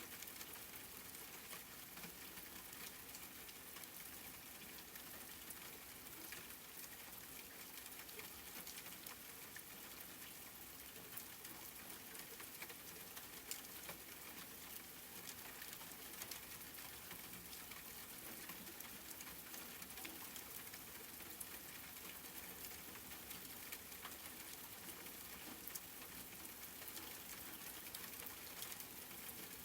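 Quiet, steady rain: an even hiss dotted with many small, sharp drop ticks, unchanging throughout.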